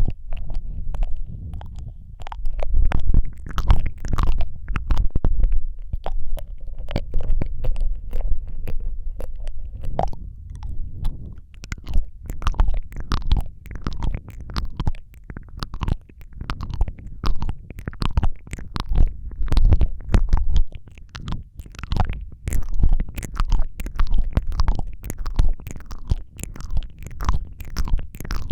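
Close-up wet mouth sounds into a Rode microphone: a continuous string of irregular lip and tongue clicks, smacks and kissing noises, with a heavy low thump from breath and movement on the microphone.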